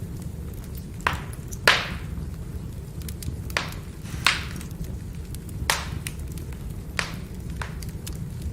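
Burning firewood crackling: seven sharp pops, roughly a second apart, over a steady low rumble.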